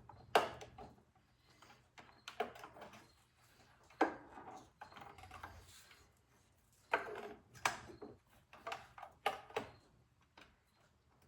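Scattered sharp clicks and light metallic knocks, irregularly spaced, as a snowblower carburetor's throttle linkage and return spring are worked loose by hand.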